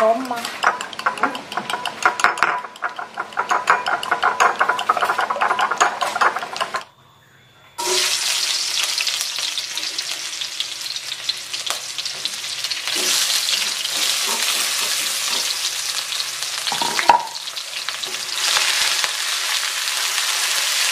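A fork beating eggs in a glass bowl, a rapid run of clinks. After a brief break, sliced shallots and garlic sizzle in hot oil in a wok, stirred with a spatula, with one sharp knock near the end.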